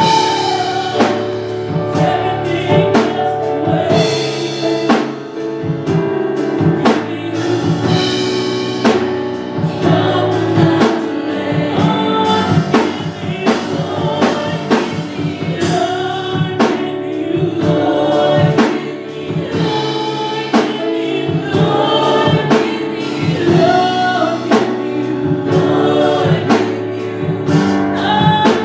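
Gospel music: voices singing together over a band with a drum kit keeping a steady beat.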